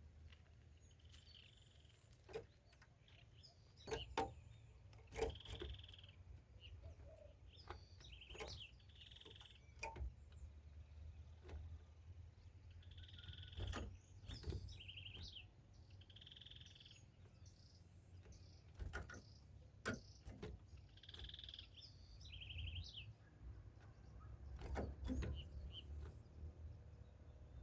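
Ultramarine grosbeak (azulão) singing faint, short phrases every few seconds. Scattered sharp clicks and a steady low rumble run underneath.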